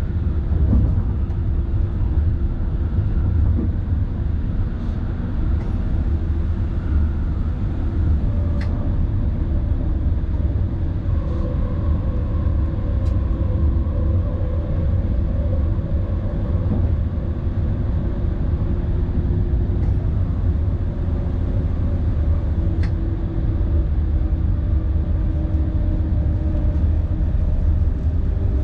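Tilting InterCity train running along the track, heard from its driving cab: a steady low rumble with a faint even hum from the drive, and a few sharp clicks now and then.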